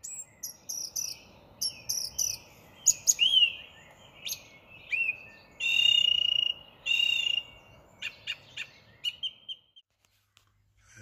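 A flock of starlings calling: a busy run of short whistles, clicks and sliding whistled notes, with two longer held whistles in the middle.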